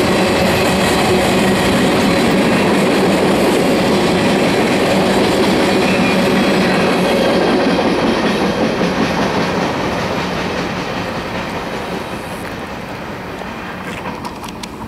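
Freight train cars, boxcars and covered hoppers, rolling past on the rails at speed. About eight seconds in, the end of the train goes by and the rolling noise fades steadily as it moves away.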